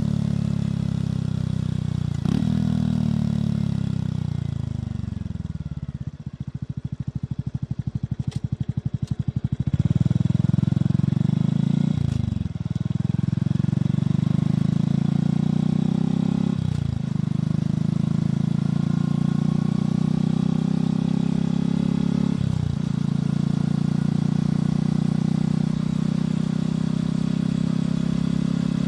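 Motorcycle engine and exhaust heard from the bike while riding. It slows down and sits at a low, pulsing idle from about six seconds in, then accelerates away through three upshifts, each a brief dip in pitch before it climbs again.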